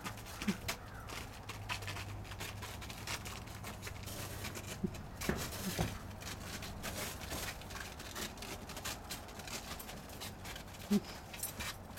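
Greyhounds' paws crunching and scratching on hard, frozen snow crust: an irregular run of short crisp crunches and clicks, with a few brief higher sounds in between.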